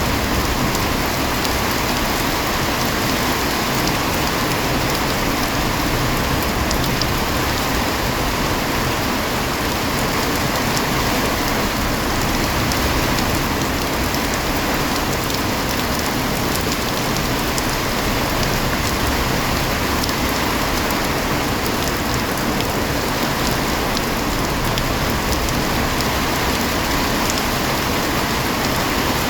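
Heavy rain falling steadily: an even, unbroken hiss with scattered ticks of individual drops striking a surface.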